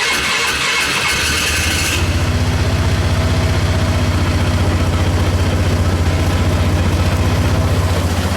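2010 Polaris Sportsman 500 HO quad's single-cylinder four-stroke engine on a cold start. The electric starter whirs until the engine catches about a second in. From about two seconds in the starter drops out and the engine runs on its own at a steady, evenly pulsing idle.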